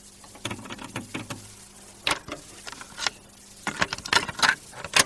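Irregular sharp clicks and rattles, several close together around the middle and toward the end, over a faint steady hum.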